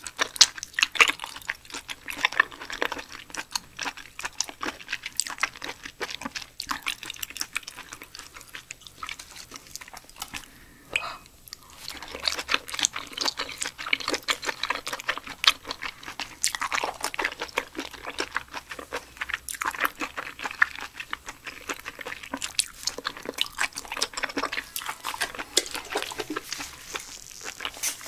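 Close-miked chewing of blanched Pacific spiny lumpsucker: a rapid, steady stream of mouth clicks and smacks from a chewy, gelatinous food, with a short lull about eleven seconds in.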